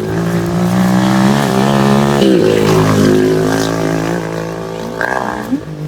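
ATV engine running under throttle, its pitch dropping about two seconds in and then climbing again as it picks up speed.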